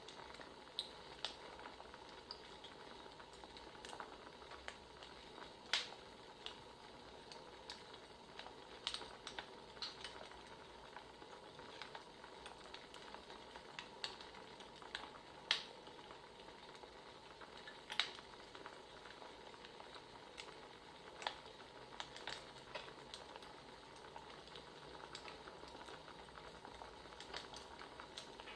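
Wood fire crackling: a steady soft hiss with irregular sharp pops and snaps, a few of them louder than the rest.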